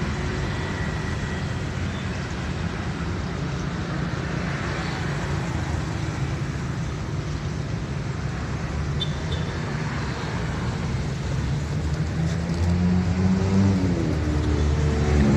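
Steady road traffic, with a vehicle engine coming close and growing louder near the end.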